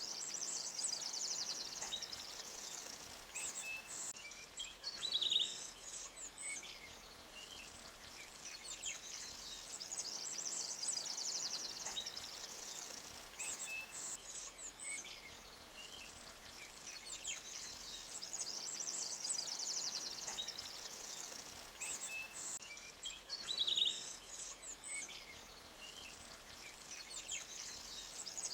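A small forest stream flowing steadily, with birds chirping. A high trilling call swells and fades about every ten seconds.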